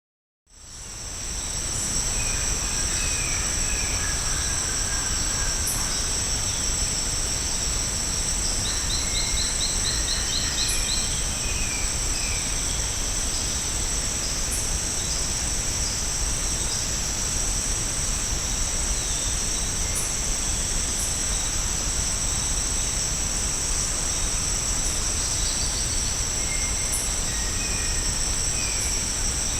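Steady, high-pitched drone of tropical rainforest insects, a continuous two-toned buzz that fades in after about half a second. Faint scattered bird calls sound beneath it, including one quick run of about eight rapid notes about ten seconds in.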